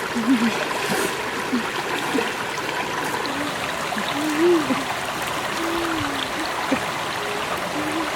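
Water flowing steadily in a stream, with a few short, low vocal sounds now and then over it.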